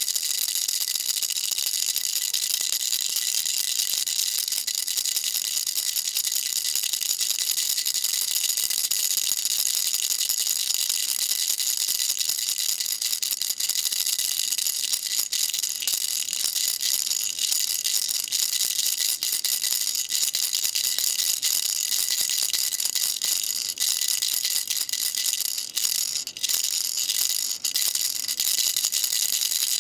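Baby rattle shaken continuously: a dense, steady rattling with a couple of brief dips near the end.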